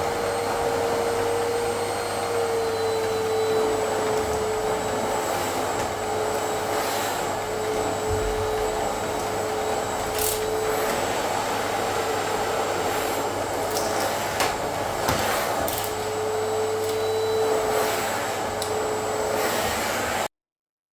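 Repaired Miele vacuum cleaner running steadily, its motor giving a constant rushing sound with a steady hum and a faint high whine, working properly with strong suction. A few light clicks occur along the way, and the sound cuts off suddenly near the end.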